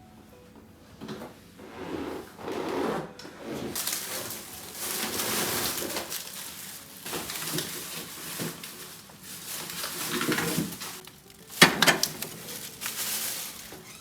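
Rustling and clattering handling noises, with a cluster of sharp knocks a little before the end.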